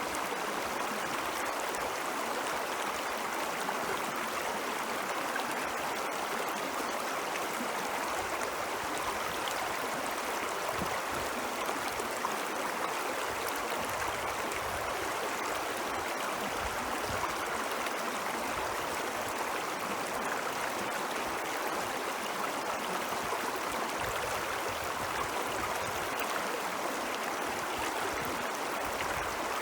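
Ice-melt water flowing in a stream, a steady rushing and gurgling.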